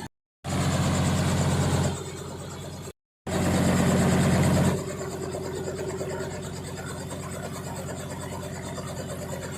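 Engine running with a steady drone, in three joined stretches separated by two brief dead-silent dropouts. It is loudest in the second and third stretches, then settles into a steadier hum with a held mid-pitched tone.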